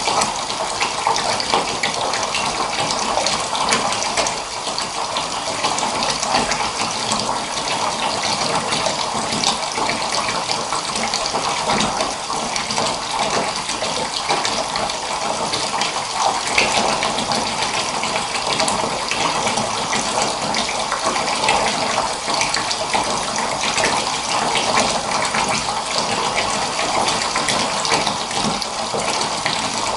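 Water running steadily from a tap into a bathtub, filling it.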